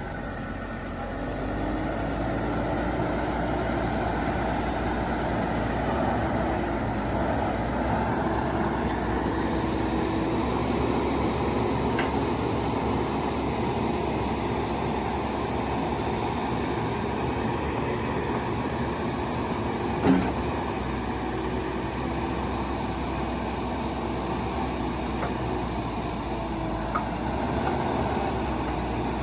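Diesel engine of a JCB 215E backhoe loader running steadily, its speed picking up about a second or two in, with a wavering hum over the engine noise. There is a single sharp click about two-thirds of the way through.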